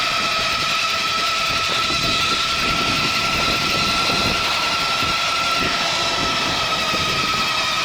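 Electric bike's rear hub motor whining at a steady pitch under power, with wind rushing over the chest-mounted camera's microphone.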